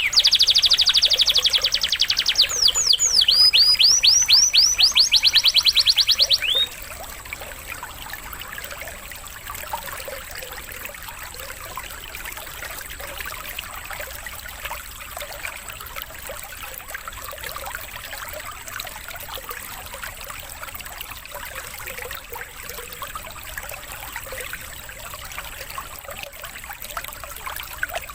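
Canary singing lovebird-style fill: rapid trills of high, down-sweeping notes with a short break near the middle. The song stops about six and a half seconds in, leaving steady trickling water for the rest.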